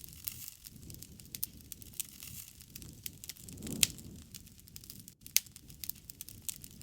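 Wood fire crackling: frequent sharp pops and snaps over a low rumble of the flames, with the loudest pop a little under four seconds in and another strong one about a second and a half later.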